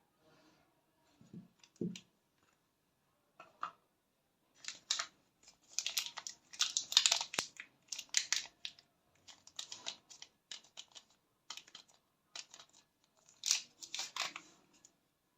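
Bar soaps in their paper and cardboard wrappers being opened and handled: crisp crinkling, tearing and scratching with sharp clicks. A couple of soft knocks come first, then a dense run of handling sounds from about four seconds in.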